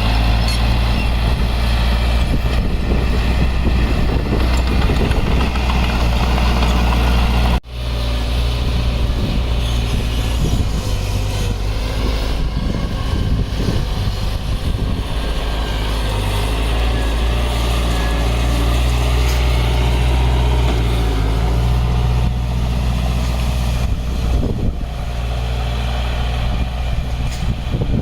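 Heavy diesel engine of earthmoving equipment running steadily with a deep low hum, broken once by a sudden brief cut about a quarter of the way through.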